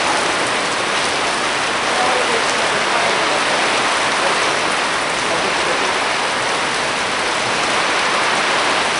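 Hard, steady rain pouring down in a thunderstorm, an even hiss of rain on surfaces.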